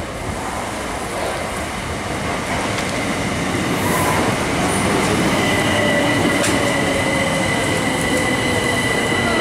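Eight-car Southern class 377 Electrostar electric train running into the platform and slowing, its wheel and running noise growing louder about four seconds in. From about halfway a steady high squeal sounds over it, with a lower whine falling slowly in pitch as the train brakes.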